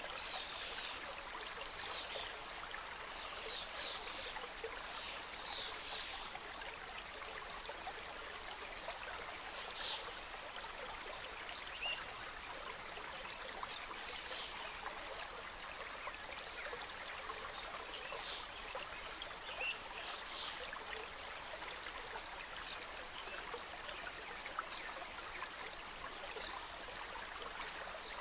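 A small mountain stream cascading over rocks, a steady rush of running water.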